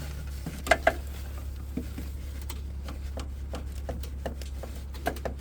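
Scattered light clicks and knocks of the handbrake lever being let down and hands working under a truck's dashboard, with two sharper clicks about a second in, over a steady low hum.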